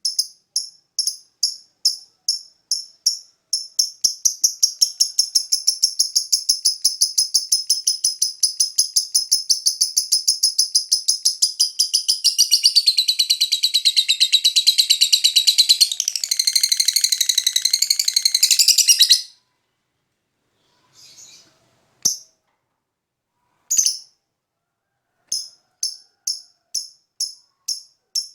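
Lovebird song: sharp high chirps repeated two or three a second, then a long, fast, continuous chattering trill lasting about fifteen seconds that stops suddenly. A few scattered chips follow, and the spaced chirps start again near the end.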